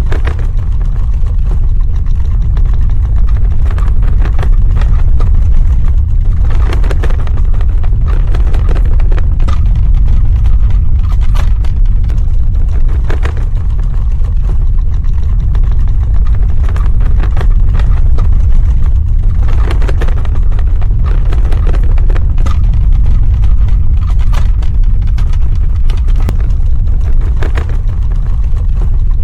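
Earthquake sound effect: a loud, steady deep rumble with spells of cracking and rattling every several seconds.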